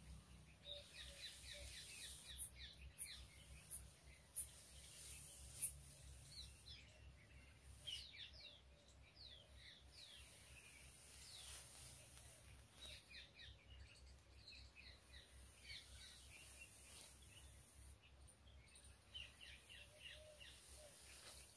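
Faint chirping of small birds, many short falling calls throughout. A few brief, sharp high swishes between about two and six seconds in, from a plastic comb drawn through long hair.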